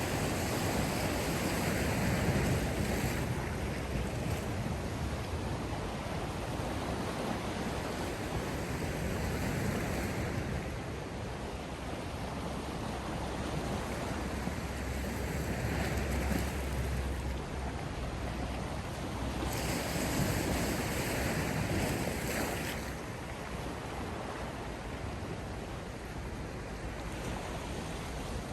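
Sea waves washing onto the shore, the surf swelling and easing back every several seconds, over a steady low rumble of wind.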